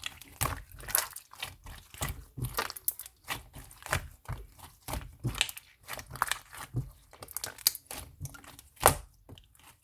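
Slime being squeezed and worked by hand, giving an irregular run of crackling clicks and pops, with one louder pop near the end.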